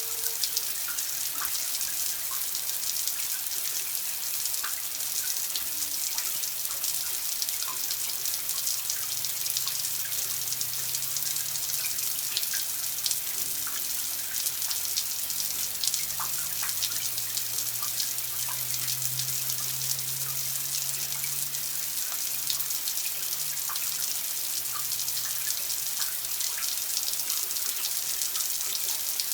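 Running water splashing steadily, with many small drips and plinks in it, like a tap running into a basin. A faint low hum sits under it through the middle.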